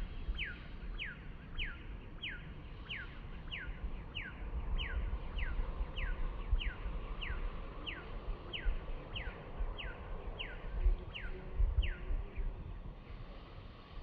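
A bird repeating a short, falling whistle about every half second, stopping shortly before the end, over a low rumbling noise.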